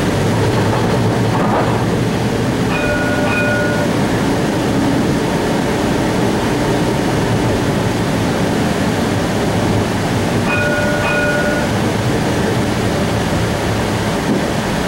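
Cincinnati Bell Connector streetcar running, heard from inside the car: a steady low rumble of the traction drive and wheels on rail. A short double-ding chime sounds twice, about three seconds in and again about ten seconds in.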